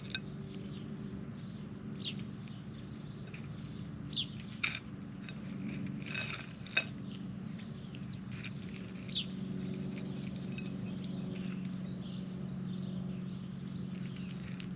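Squirrels and birds feeding at a yard feeding spot: scattered sharp clicks and taps and a few short high chirps, over a steady low hum.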